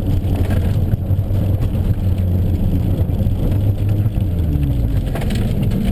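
Car engine heard from inside the cabin under hard driving: it runs at steady revs, then the revs drop and climb again near the end.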